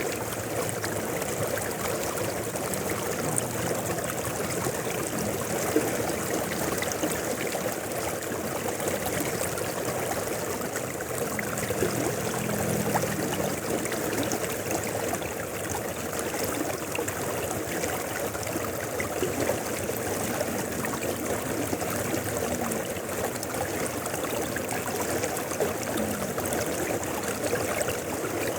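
River water flowing steadily: a continuous, even rush of water with a trickling edge.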